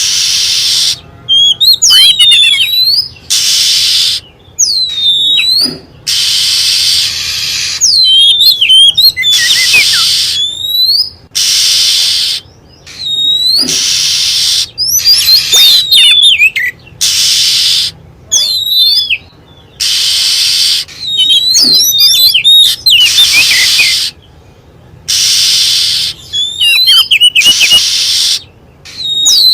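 Oriental magpie-robin lure recording: quick, curving whistled song phrases alternating every second or two with long, harsh hissing churrs, repeating.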